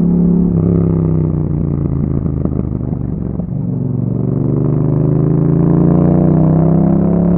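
2021 Yamaha MT-07's parallel-twin engine through an Akrapovic exhaust, revs dropping off for about three seconds with a few pops and crackles, then climbing steadily again under acceleration.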